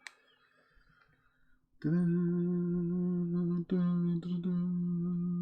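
A man humming one low, steady note, held for nearly four seconds with two short breaks.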